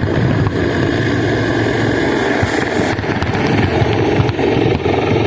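A dense fireworks barrage: a continuous rumble and crackle of many shells bursting at once, with no single bang standing out.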